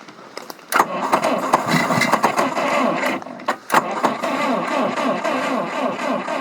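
The starter motor of a 1954 GAZ M-20 Pobeda cranks its side-valve four-cylinder engine on a freshly swapped battery. It starts about a second in, breaks off briefly partway through, then cranks on steadily without the engine catching.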